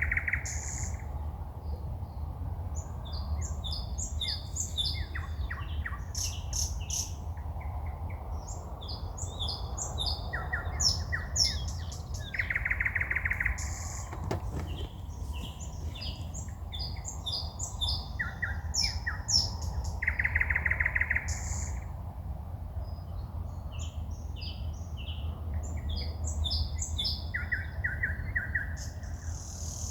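A songbird singing at night in phrases of quick, repeated high notes, with a buzzy rattle about every seven or eight seconds. A steady low hum runs underneath.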